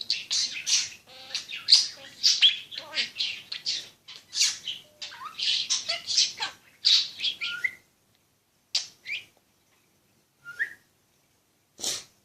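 Pet parrot chattering and squawking in quick, harsh calls for about eight seconds. Then come a few single squawks and short whistles with pauses between them.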